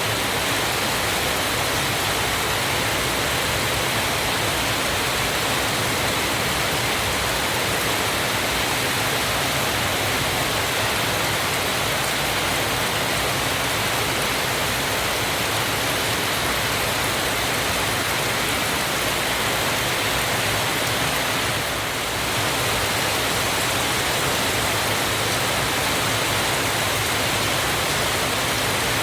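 Waterfall: a steady rush of falling water, with a brief slight dip in level about three-quarters of the way through.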